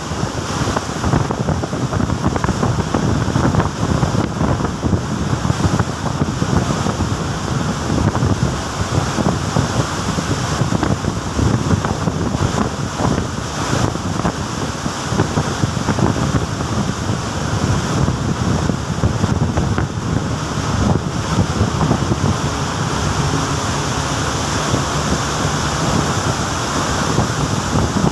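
Rough open-sea waves churning and rushing, heard from aboard a ship, with wind noise on the microphone.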